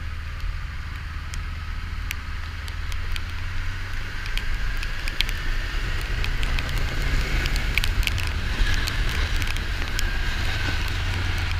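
Kawasaki Ninja 400's parallel-twin engine running under ride noise, with a steady low rumble, a faint pitch that slowly rises over several seconds and eases down near the end, and scattered sharp ticks.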